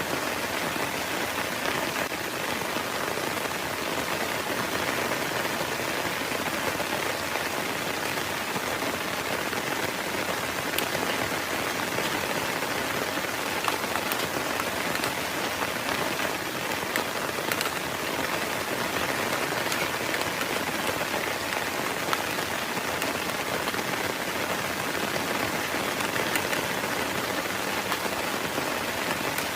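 Heavy rain falling steadily, a dense even patter with scattered individual drop hits.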